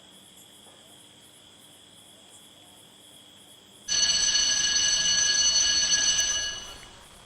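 Crickets chirring steadily in a high, even drone. About four seconds in, a much louder, steady, high-pitched ringing tone cuts in, holds for about two and a half seconds, then fades away.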